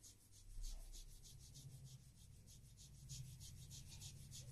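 Faint, rapid rubbing of hands on the skin around an ear, dusted with talcum powder, in even strokes several times a second: a friction massage.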